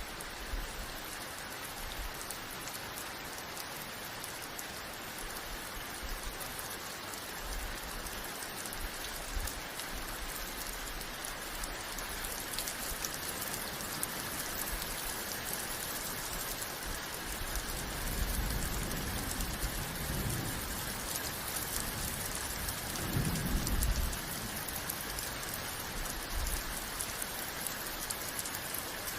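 Steady heavy rain falling, with two low rumbles of thunder about two-thirds of the way through, the second one louder.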